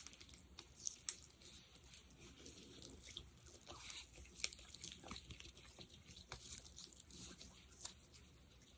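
Sticky, wet crackling and clicking as fingers press into and pull away from a thick gel, in irregular bursts with two sharper snaps, about a second in and about four and a half seconds in.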